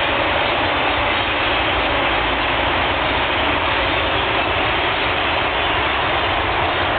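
A huge flock of grackles calling all at once, a dense, steady wall of chatter with no single call standing out.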